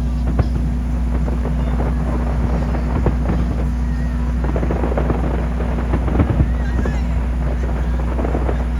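Fireworks bursting and crackling, with many short sharp reports scattered throughout, over a steady low engine-like hum.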